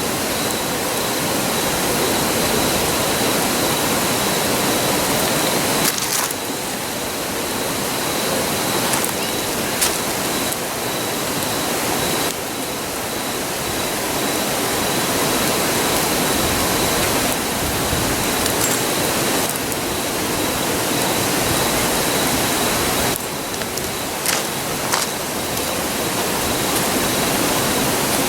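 Steady rushing roar of a nearby river, with a few sharp pops and crackles from the burning campfire wood.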